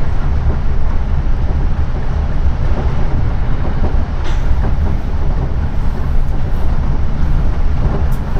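A Class 455 electric multiple unit heard from inside the carriage while running along the line: a steady rumble of wheels and running gear.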